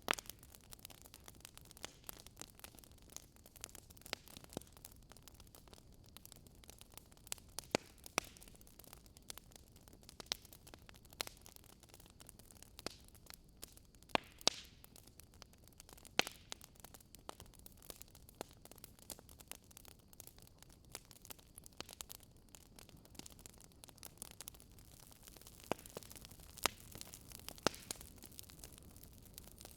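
Wood fire crackling: burning logs giving irregular sharp pops and snaps over a soft, steady hiss.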